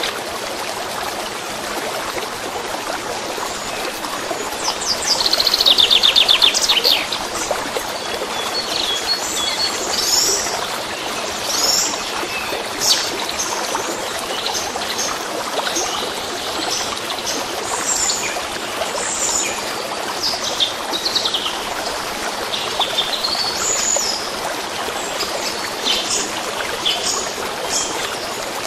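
Birdsong over steadily running water: a fast trill about five seconds in, the loudest moment, then many short high chirps and whistles.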